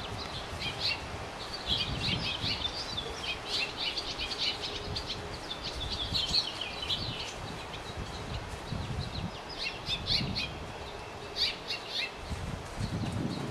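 Small birds chirping: many short, high chirps in dense runs, thinning to a couple of brief bursts in the second half.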